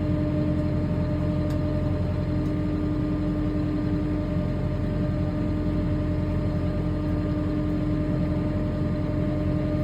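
Kubota M6 tractor's diesel engine running steadily at a fast idle, heard from inside the cab, with a constant whine over the hum, as the tractor crawls in low gear up onto a trailer.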